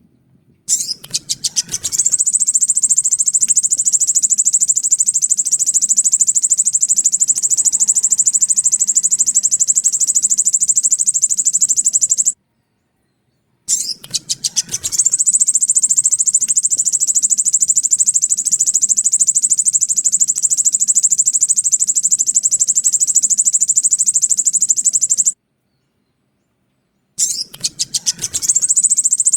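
Recorded sogon bird lure call: a few quick notes open into a long, very high, rapid trill lasting about ten seconds, which stops abruptly. The loop plays three times with short silent gaps between, the third starting near the end.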